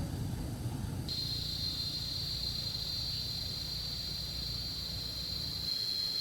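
An insect, cricket-like, trilling in one steady high tone that comes in abruptly about a second in, over a low rumble that drops away near the end.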